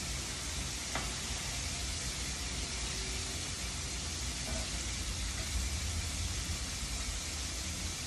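Chicken wings deep-frying in a pot of hot oil: a steady sizzle, with one brief knock about a second in.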